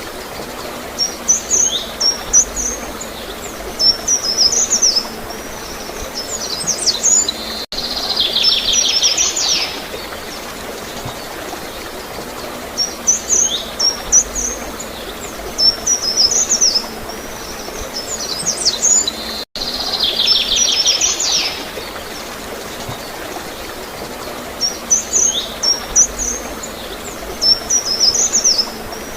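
Songbirds chirping and trilling in quick high-pitched phrases over a steady wash of gurgling water. The same sequence of calls repeats about every twelve seconds, with brief dropouts where the recording loops.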